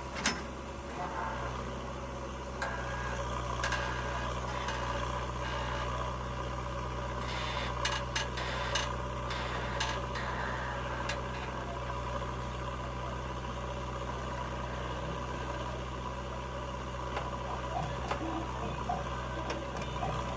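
Diesel engine of a tractor or backhoe loader running at a steady idle, with scattered clicks and knocks over it.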